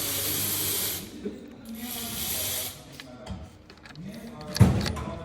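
Two hissing spray bursts, the first ending about a second in and the second about two seconds in, then one loud clunk near the end.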